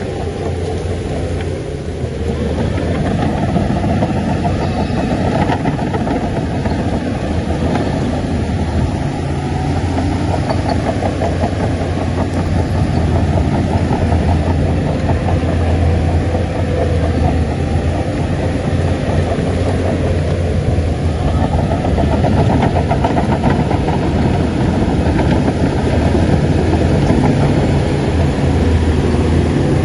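Heavy diesel engine of earthmoving machinery running steadily, growing louder about two seconds in.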